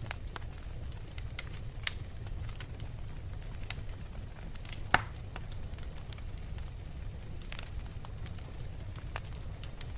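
Wood fire burning in a fireplace: a steady low rumble of flames with scattered sharp crackles and pops from the logs, one louder pop about five seconds in.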